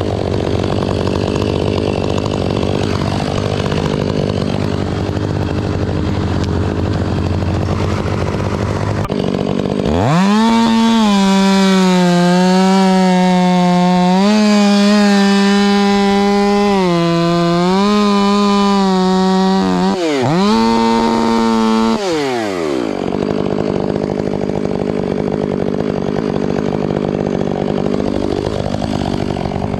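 Two-stroke chainsaw at work. After a stretch of steady lower engine noise, it goes to full throttle about a third of the way in, its high whine sagging and recovering several times as it loads up in the cut. It drops briefly, revs again, then falls back off throttle about two thirds of the way through.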